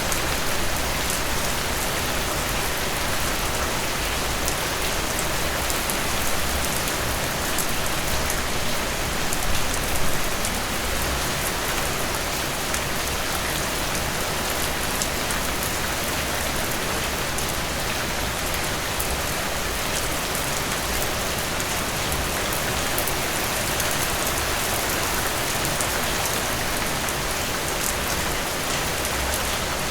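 Steady rain falling, an even hiss of rain on surfaces with fine patter of individual drops, swelling briefly about ten seconds in.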